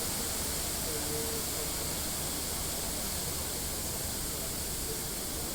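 Steady rushing hiss of water from a large fountain's jets spraying and falling back into the pool.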